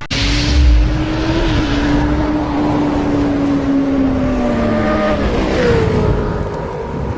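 Benelli Tornado 302R's parallel-twin engine running with revs held up, its pitch sinking slowly and then shifting about five seconds in.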